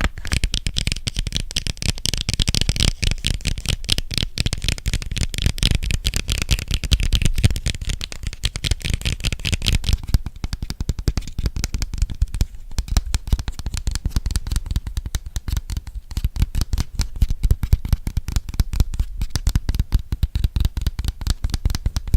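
Rapid fingertip and nail tapping on an object close to the microphone, many taps a second without pause. About halfway through the taps lose their crisp, bright edge and sound duller.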